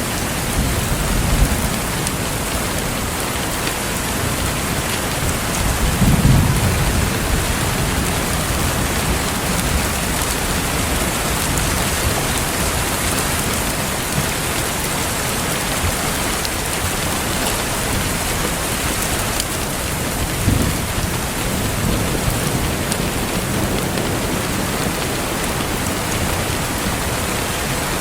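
Steady rain with low rumbles of thunder, the strongest swell about six seconds in and another about twenty seconds in.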